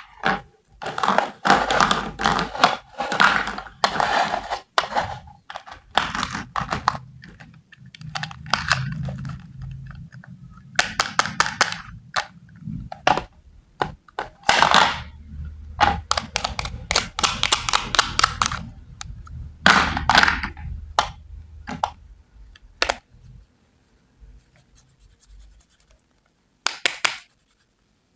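Knife cutting food on a cutting board: a run of sharp knocks and scraping strokes in clusters, thinning out to a few scattered knocks near the end.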